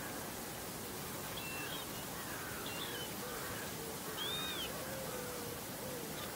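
Birds calling over a steady outdoor hiss: a few short high calls, the clearest an arched note about four seconds in, with fainter lower wavering calls underneath.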